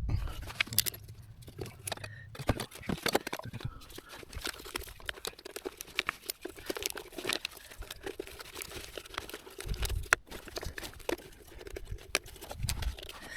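Irregular clicking, tapping and rustling of tools and car parts being handled, with a few dull thumps.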